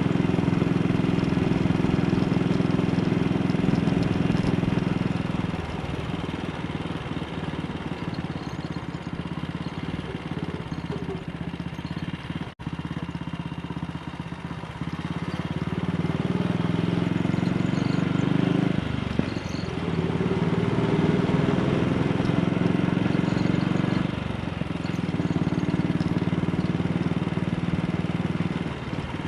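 AJS Model 8's single-cylinder motorcycle engine under way. It pulls strongly at first, runs softer for several seconds, then builds again, dipping briefly twice in the second half, as at gear changes.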